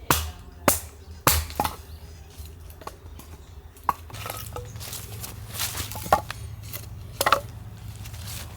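Firewood being chopped or split with a blade. About seven sharp, irregularly spaced strikes come in a cluster in the first two seconds, then a few more further apart.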